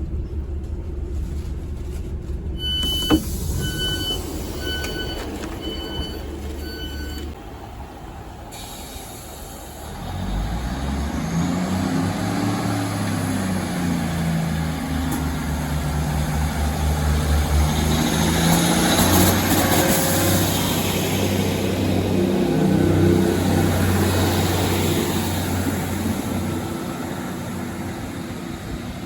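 Diesel multiple unit's door-warning beeps, five of them about a second apart, over its idling diesel engine. About ten seconds in, the engine opens up and runs under power as the train pulls away, its pitch rising and shifting.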